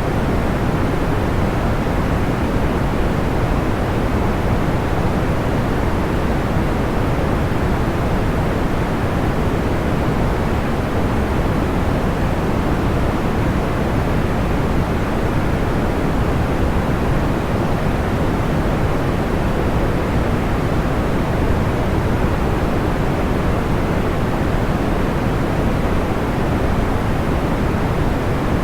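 Steady, unchanging sleep-aid noise with its weight in the low end, heard as a deep even hiss without distinct crackles.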